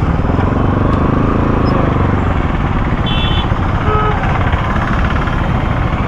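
Kawasaki Z900 inline-four motorcycle engine running loud, with a rev that rises and falls in the first couple of seconds. A short high-pitched beep sounds about three seconds in.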